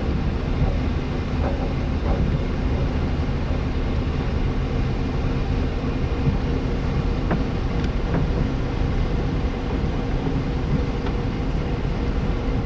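Car engine and tyre noise heard from inside a moving car: a steady low rumble with a faint hum, and a couple of small ticks about seven to eight seconds in.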